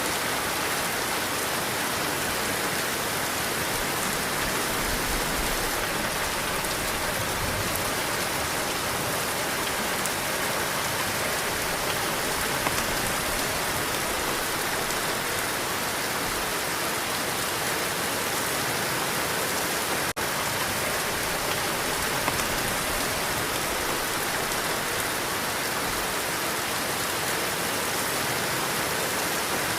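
Heavy rain falling steadily, a dense, even patter of drops on surfaces. There is a momentary break about two-thirds of the way through.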